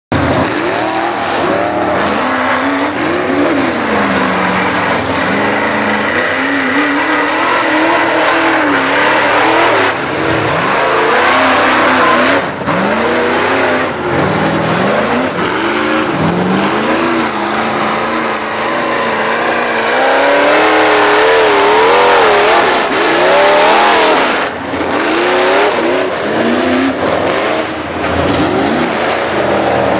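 Big V8-style mud truck engine revving hard, its pitch rising and falling over and over as the truck is driven through a mud pit.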